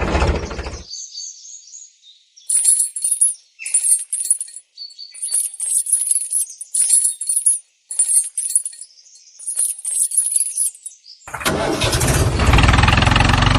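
Tractor engine running with a low, rhythmic beat, cutting off about a second in. Only faint, short high chirps follow for several seconds. Near the end the engine starts up again loud and runs steadily.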